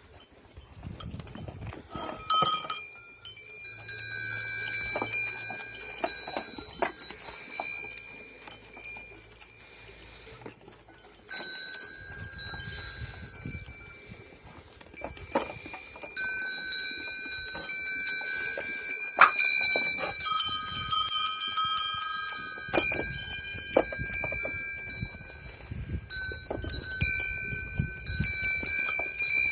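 Many goat bells clanking and ringing together as a herd of goats moves about, the strikes overlapping irregularly and growing busier in the second half.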